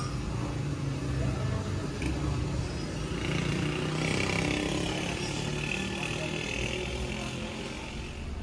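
Hyundai HB20's engine running, with a steady low rumble and a higher hiss for a few seconds in the middle.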